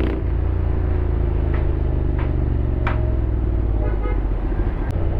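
Honda X-ADV 750's parallel-twin engine running at low revs while riding in traffic, its note slowly easing down over the first few seconds.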